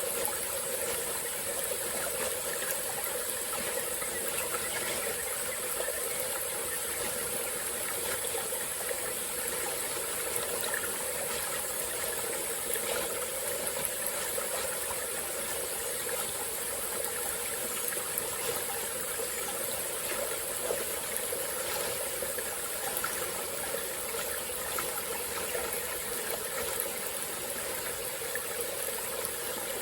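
A small forest stream flowing steadily over rocks, an even rushing and trickling with no breaks, under a constant high-pitched hiss.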